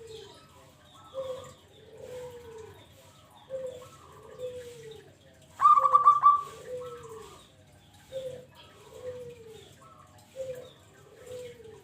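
Zebra dove cooing: a short note followed by a longer falling coo, repeated about every two and a half seconds. About six seconds in, a brief, much louder rapid rattling sound cuts in.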